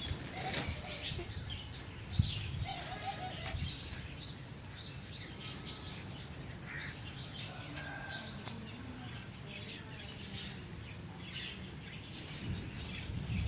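Several aviary birds chirping and calling in short, scattered notes, with a single sharp knock about two seconds in.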